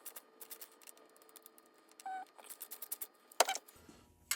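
Hand tools clicking and tapping on metal as the primary chain adjuster is loosened and reset a notch to ease the chain tension. Irregular sharp clicks, with a short tone about two seconds in and one louder click near the end.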